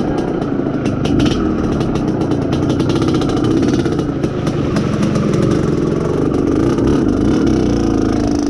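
IZh Planeta Sport's single-cylinder two-stroke engine running steadily as the motorcycle is ridden, with the engine being run in.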